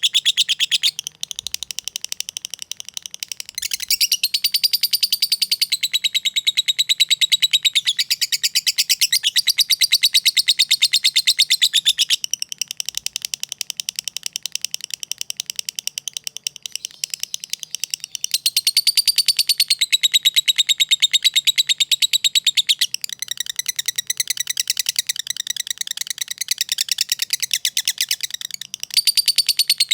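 Lovebird singing a long, unbroken chatter made of very rapid high ticks (the 'ngetik' and 'ngekek' song), swelling into louder phrases and easing back several times.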